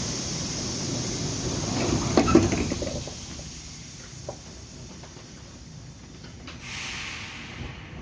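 Interior running noise of a moving 81-740/741 Rusich metro train, with a few knocks about two seconds in. After that the running gets quieter, and a short hiss comes near the end.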